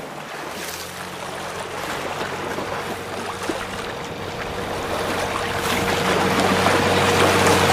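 Small motorboat sound effect: a low, steady engine hum under the wash of water, growing steadily louder as the boat draws near.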